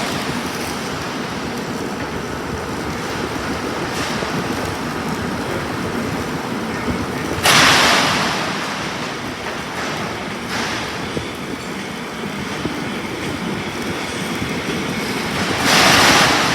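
Self-shielded flux-cored welding arc burning Lincoln Innershield NR305 5/64" wire, a steady crackling sizzle. It grows louder briefly about halfway through and again near the end.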